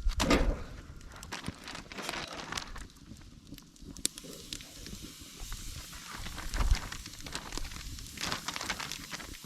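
Campfire crackling, with scattered sharp snaps and a louder rush of noise right at the start.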